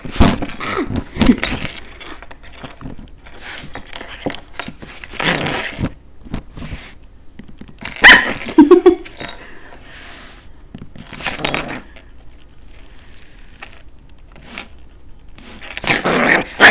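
Chihuahua puppy barking in short, irregular bursts while play-fighting, loudest about eight seconds in, with scattered scuffling noises between.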